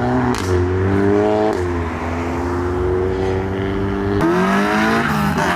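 Car engine accelerating away, its pitch climbing and then dropping suddenly at an upshift about a second and a half in. It holds a steady pitch, then rises again near the end.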